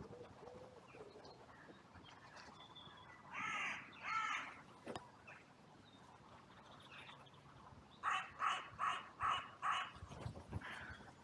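Crow cawing: two harsh caws about a third of the way in, then a run of six quick caws near the end.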